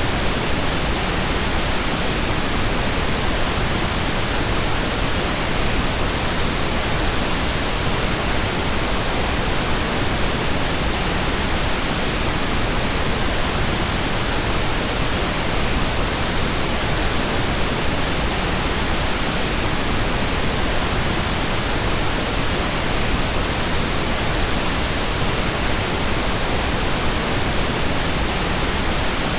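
Steady pink noise: an even, unchanging hiss spread across the whole range of hearing, with no breaks or changes.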